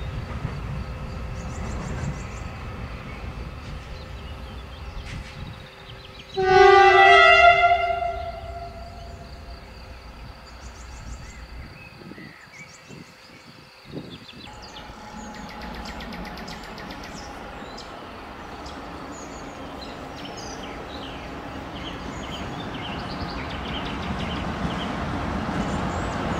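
A train horn sounds one loud blast of about two seconds, its pitch dipping slightly partway through, with train rumble dying away before it and rumble building again near the end as a train approaches.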